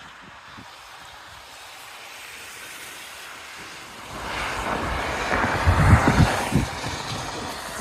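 Storm wind rushing and gusting against the microphone: a faint hiss that swells about four seconds in into loud, uneven low buffeting.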